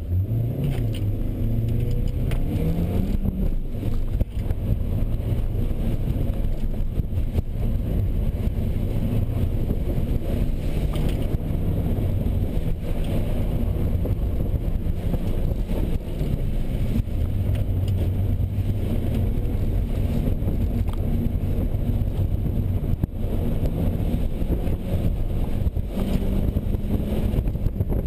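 2001 Audi A4 Quattro engine accelerating hard through an autocross course. Its pitch climbs steadily at the launch, then rises and falls repeatedly as the driver gets on and off the throttle, over a constant low rushing noise.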